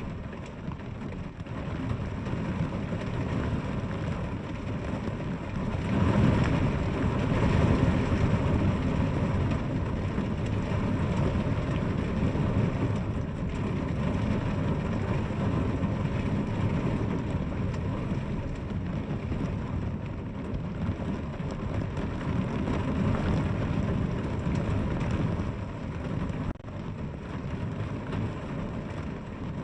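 Steady rain, a dense hiss with a strong low rumble under it. It swells louder about six seconds in, then eases back.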